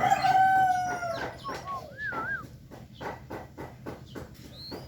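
Rooster crowing: one long held crow that tails off about a second in, followed by a brief wavering whistle and a run of short sharp clicks.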